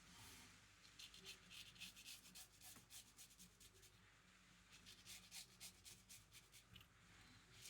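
Razor blade scraping through stubble in a run of short, faint strokes during a wet shave.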